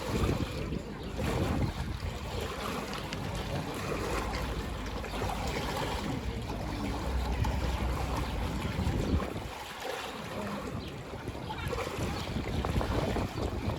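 Ocean waves washing and breaking continuously, with wind rumbling on the microphone; the sound eases briefly about ten seconds in.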